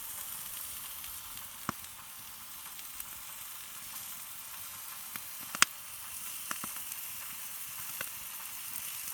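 Thick slices of pork neck sizzling on a stone slab heated in a wood fire: a steady hiss with a few sharp pops scattered through it, the loudest a little past halfway.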